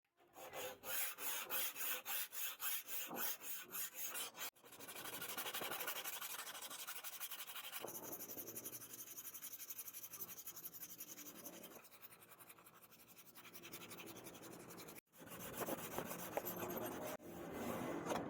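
Steel blade being worked by hand against an abrasive, rhythmic back-and-forth scraping strokes, about three a second. After an abrupt cut the scraping turns quicker and steadier, and after another cut near the end the separate strokes return.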